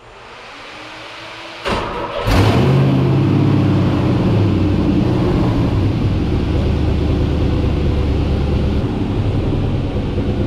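A 5.3-litre LS V8 (LM7) in a Mazda RX-7 is cranked and catches about two seconds in, then runs steadily at a low idle.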